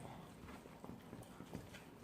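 Faint, irregular soft clicks and smacks of someone eating: chewing and mouth sounds, several a second.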